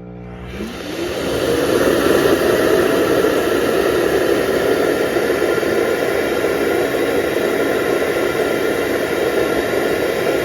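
Amarey A90+ self-emptying dock's suction motor sucking debris out of the robot's dustbin into the dock's dust bag: a loud, steady rush of air that spins up with a rising whine over the first second or two.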